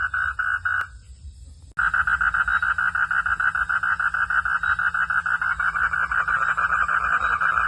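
Frogs calling in a fast, evenly pulsed chorus that repeats several times a second. It breaks off with a click about a second in, then resumes louder after a short gap, starting again with a sharp click.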